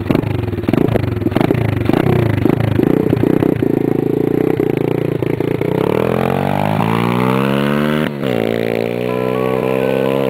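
125cc pit bike engine running and being revved: quick throttle blips at first, then a long steady rise in revs that drops off suddenly about eight seconds in and climbs again.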